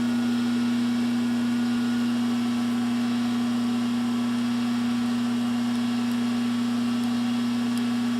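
Metal lathe running steadily, a constant even hum with no change in pitch or level.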